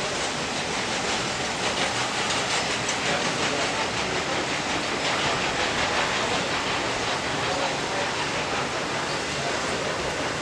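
Train passing on the rails, a steady rush of wheel and rail noise with faint repeated clicks in the middle, under steady wind-like noise.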